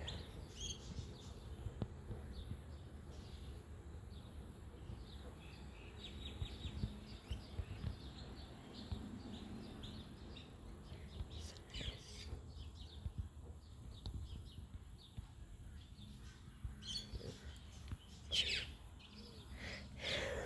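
Faint scattered bird chirps and calls over a low outdoor background rumble, with one short louder sound about eighteen seconds in.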